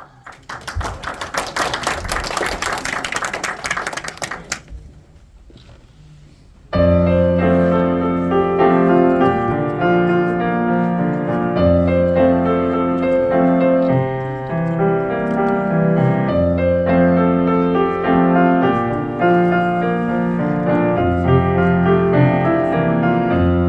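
Audience clapping for about four seconds, then a short lull, then a solo piano starts playing a slow pop ballad about seven seconds in.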